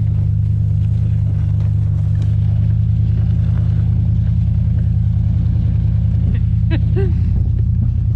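Pickup truck engine running steadily at a constant pace, heard as a loud, even low drone while towing sleds over snow. A brief short shout about seven seconds in.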